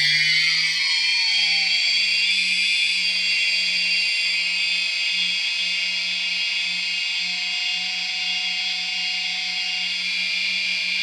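DJI Phantom 1 brushless motor spinning with a steady high-pitched whine, its bearings freshly lubricated. The pitch climbs slightly in the first second or two and then holds level.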